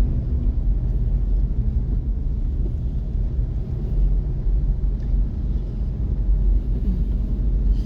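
Steady low rumble of a moving vehicle: engine and road noise running evenly, with no distinct events.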